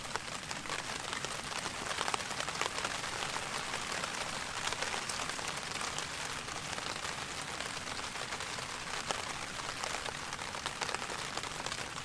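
Steady rain falling, with many separate drop hits ticking all through.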